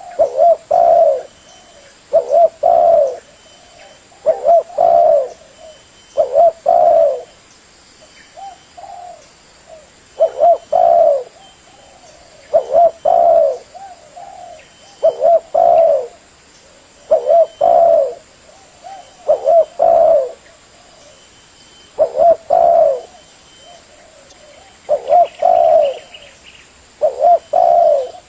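Spotted dove (tekukur) cooing: short phrases of low coos repeated about every two seconds.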